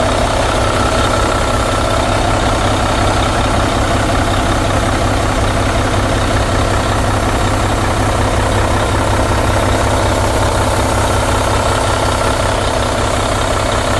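Mack MP8 inline-six diesel engine of a 2013 Mack CXU613 dump truck idling steadily.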